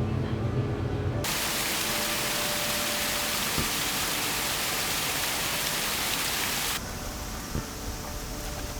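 Steady rushing hiss of water falling down a small cascade, starting abruptly about a second in. Near the end it gives way to a quieter, thinner hiss.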